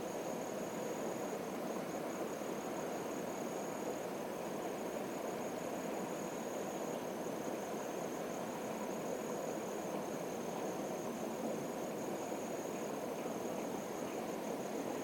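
A steady, high, thin insect trill with a light pulsing texture, over a continuous low rushing background noise.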